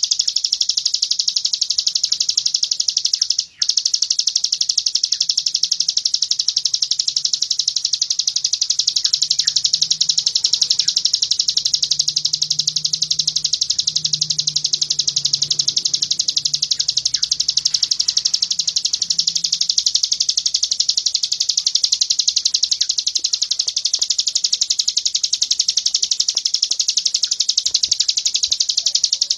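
White-eye (pleci) song in the rapid 'tembakan' style: an unbroken, very fast, high-pitched trill of quickly repeated notes, which breaks off for an instant about three and a half seconds in.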